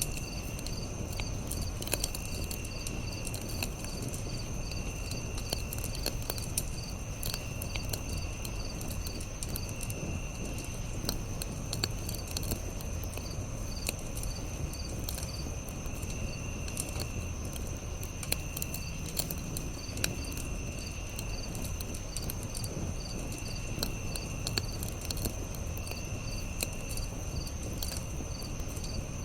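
Campfire crackling with scattered sharp pops over a steady insect chorus: one constant high trill, and another insect giving short trills about every second or two.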